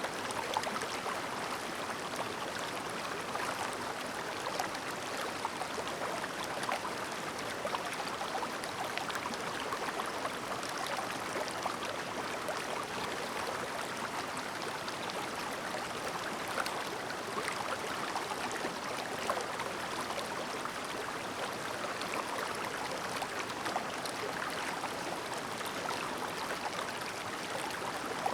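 Clear river babbling: a steady rush of flowing water, flecked with many small gurgles and splashes.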